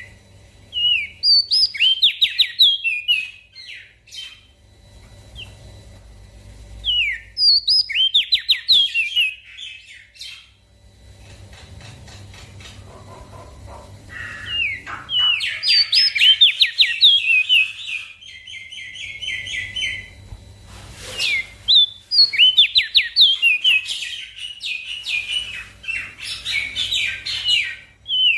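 Crested white-eye (opior jambul) singing: bursts of rapid, high chirping notes lasting a few seconds each, with short pauses between, running on without a break through the second half. A faint low hum lies underneath.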